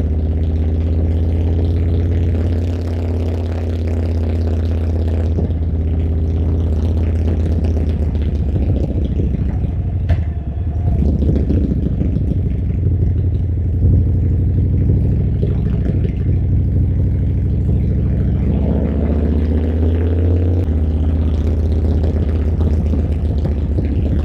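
Harley-Davidson V-twin motorcycle engine under way, a deep, steady exhaust rumble that rises and falls with the throttle; it climbs in pitch under acceleration near the end, then drops as a gear is changed.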